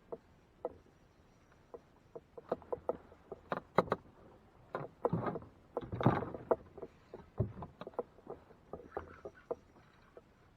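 Irregular knocks and clatter of gear and hull on a fishing kayak, sparse at first and busiest in the middle few seconds.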